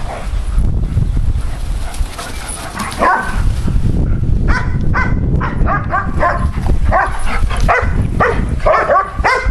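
Poodle-mix dogs barking: one call about three seconds in, then a quick run of short, high barks through the second half. A low rumble of wind noise on the microphone runs underneath.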